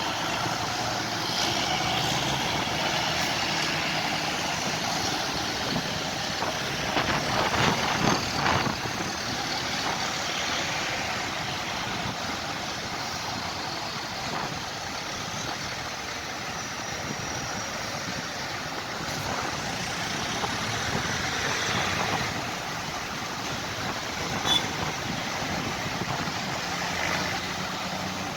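Tractor engines running, with a louder stretch about seven seconds in as one comes closer, and a brief click near the end.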